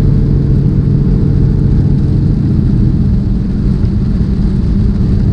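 Steady low drone of a semi-truck's engine and road noise heard inside the cab while driving on the highway, with a steady hum that fades a little past the middle.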